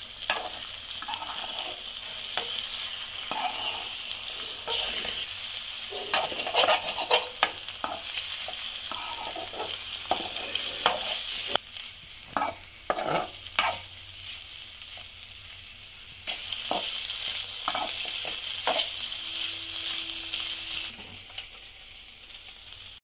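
Scrambled eggs sizzling as they fry in a metal kadai, with a metal spatula stirring them and scraping and tapping against the pan many times. The sizzle drops away for a few seconds around the middle, then comes back.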